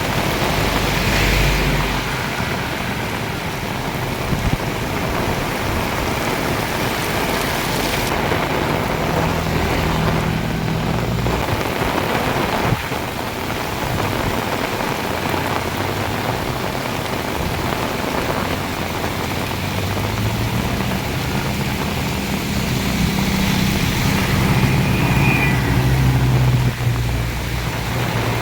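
Heavy rain pouring steadily. A vehicle's low engine hum passes through twice, about a third of the way in and again over the last third.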